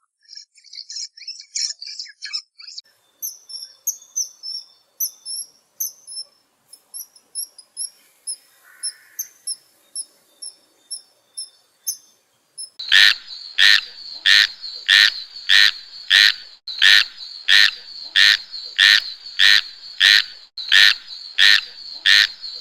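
A small bird chirping in quick runs of short, high notes. About halfway through, a louder animal call takes over: even pulses about twice a second, as a calling frog or insect makes.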